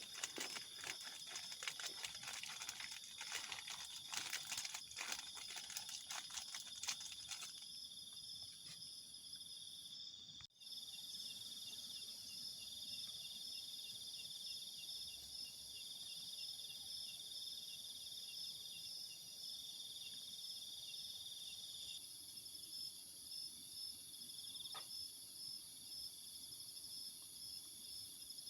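Crickets chirping steadily in high, pulsing tones, with a campfire crackling for the first several seconds before the crackle drops away.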